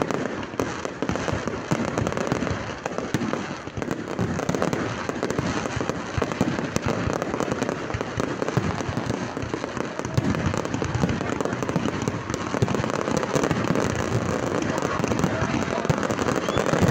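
Fireworks display: a dense, unbroken run of crackling and popping bursts.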